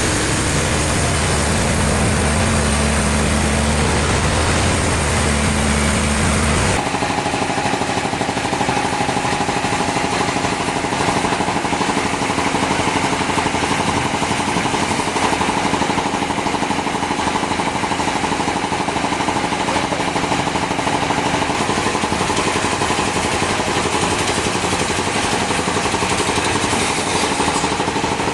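Sawmill machinery running steadily and loudly. About seven seconds in, a deep engine-like hum gives way abruptly to a higher, steady machine whine.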